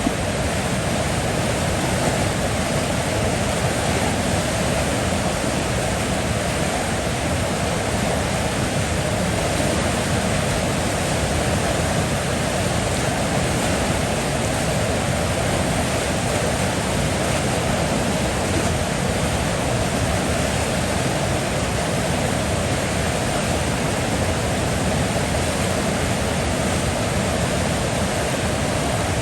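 River water flowing: a steady, unchanging rush of moving water with no separate splashes.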